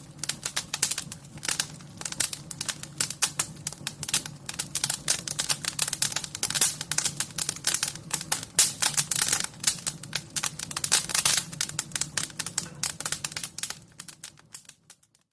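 Wood fire crackling in a fireplace, a dense run of irregular pops and snaps over a low steady rumble, fading out shortly before the end.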